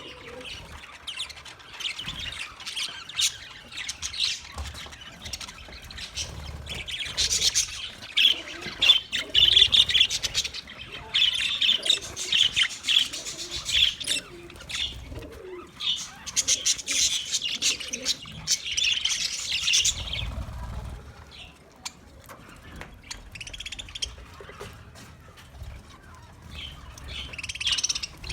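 Budgerigars chirping and warbling in a continuous chatter, in louder bouts with short pauses between, along with scattered clicks.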